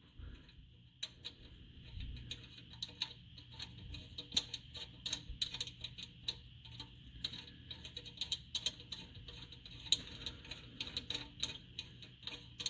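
Irregular light metallic clicks and ticks as a drilled O2 sensor fouler is screwed by hand into the exhaust's oxygen sensor bung.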